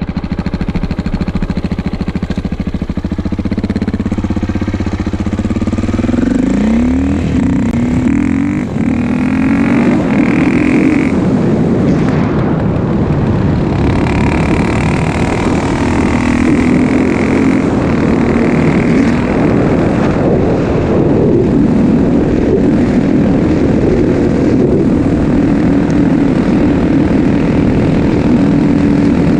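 2004 KTM 640 LC4 single-cylinder four-stroke supermoto engine running through an exhaust with the dB killer fitted. It runs steadily at first, then its pitch rises and falls repeatedly as it is revved, from about six seconds in, and stays loud throughout.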